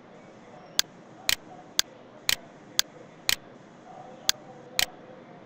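Computer mouse button clicks, sharp and clear, mostly in pairs half a second apart, about nine in all, over a faint steady hiss.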